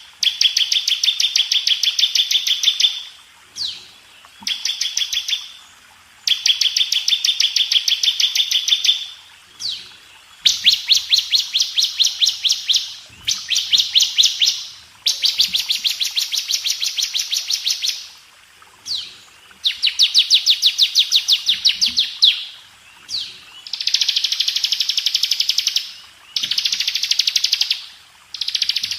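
Bar-winged prinia (ciblek) singing: a run of long, very fast trilled phrases of rapid repeated high notes, each lasting a few seconds, separated by short pauses with a single brief call between them.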